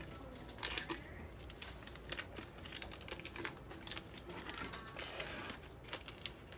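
Scattered light clicks and taps, with a little rustling, from sticks of butter being handled and put into a large soup pot.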